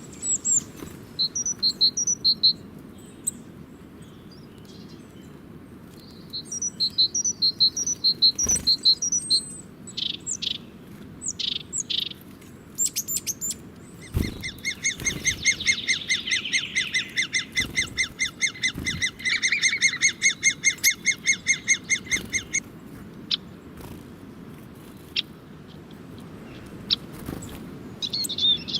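Small birds chirping: bursts of short high chirps, a few sharp falling notes, then a long run of rapid repeated notes lasting about eight seconds from about halfway in.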